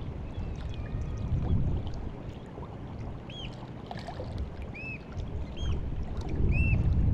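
Sea water washing and lapping at the shore on a rising tide, in slow surges that swell louder near the end. From about three seconds in, a bird gives short arched chirps, several in a row.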